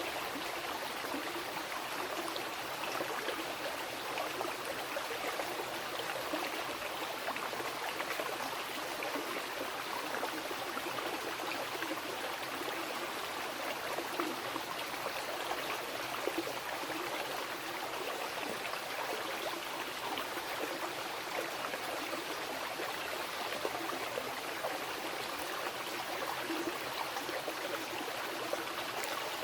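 Wild river flowing: a steady, unbroken rush of running water with no let-up.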